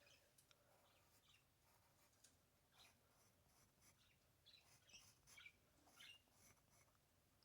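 Faint bird chirps, short calls coming now and then and more often in the second half.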